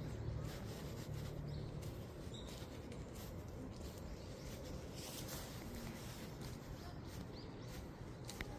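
A few faint, short bird chirps over a steady low outdoor rumble, with scattered soft clicks.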